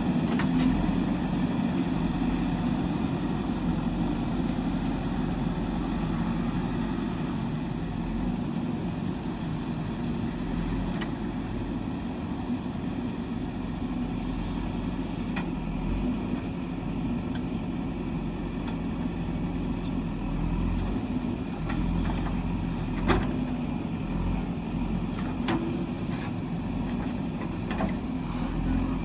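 JCB 3DX backhoe loader's diesel engine running steadily, with a few short knocks over it, the loudest about 23 seconds in.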